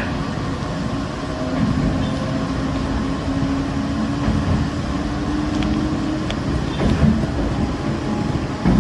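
Running noise inside the car of the WEST EXPRESS Ginga, a converted 117-series electric train: a steady low rumble of the moving train with a faint hum and a few light clicks.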